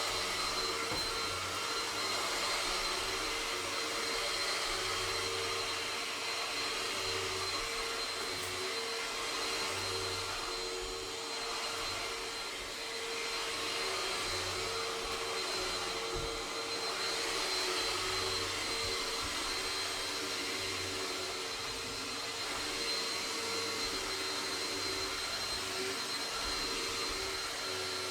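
Vacuum cleaner running steadily, a dense whooshing with a thin high whine, its pitch and loudness shifting slightly as it is pushed about.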